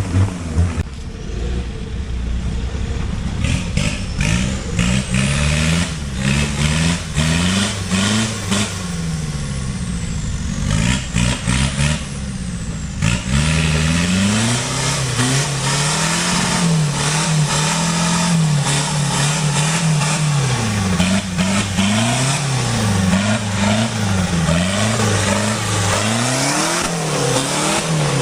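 A 4x4 off-road vehicle's engine revving up and down over and over as it drives through thick mud, with scattered short knocks in the first half.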